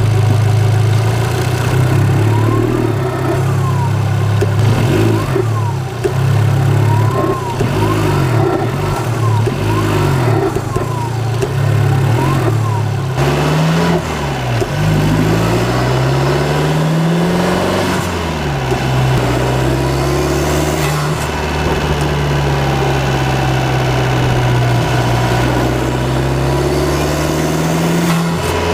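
Abarth 595 Turismo's 1.4-litre turbocharged four-cylinder engine being driven hard. Its revs swing up and down quickly for the first half, then climb and drop twice as it pulls through the gears, settle into a steady run, and rise again near the end.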